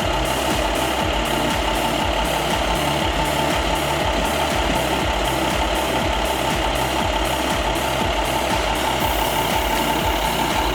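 An engine running steadily at idle, with a regular knocking pulse.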